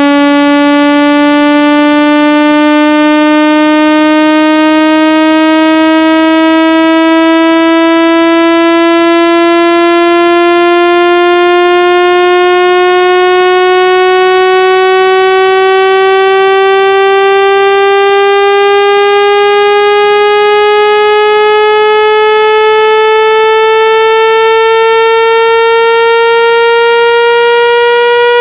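Synthesized buzzy test tone, rich in overtones, rising slowly and evenly in pitch: a speaker-cleaning sweep played to shake water and dust out of a phone speaker.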